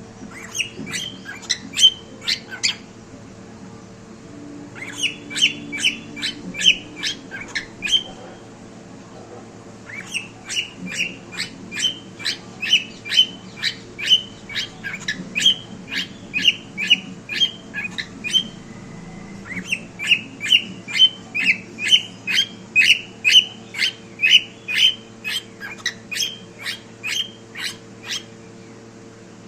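Cockatiel calling in quick series of short, rising chirps, about two or three a second, in four bouts with short pauses between.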